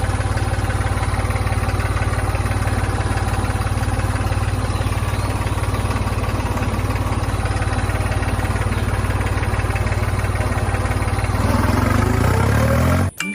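Tractor engine running steadily with a fast, even beat. Near the end it revs up, rising in pitch, then cuts off suddenly.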